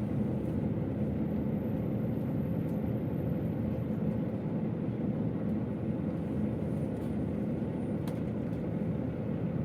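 Steady low rumble of a KiHa 281 series diesel railcar running along the line, heard from inside the train: engine and wheels on rail, with a faint click about eight seconds in.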